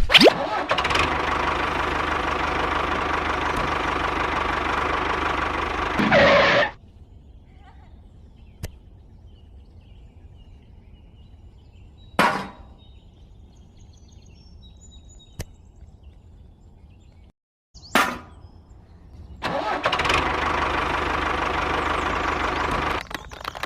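Motor of a miniature tractor running steadily, then cutting off abruptly after about six seconds. After a quieter stretch with a couple of sharp knocks, it starts again about 20 seconds in and turns into rapid ticking near the end.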